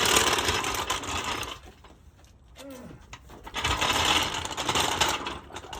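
Floor jack clattering and ratcheting while it is positioned and worked under the car, in two loud stretches with a quieter gap of about two seconds between them.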